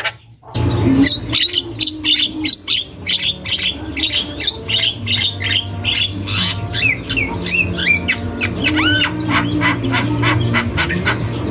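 Javan myna (jalak kebo) calling non-stop: a fast run of harsh chattering notes mixed with short whistled glides, starting about half a second in after a brief gap. A steady low hum runs underneath.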